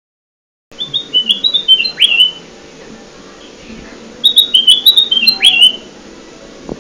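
Kutilang emas bulbul lure call: two phrases of quick, stepped whistled notes, each ending in a sweeping downward note. The first phrase begins just under a second in and the second about two-thirds of the way through, with a faint click near the end.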